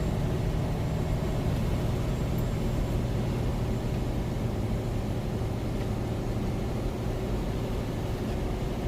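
Semi truck's diesel engine running at a steady low drone, heard from inside the cab while crawling along at about 25 mph.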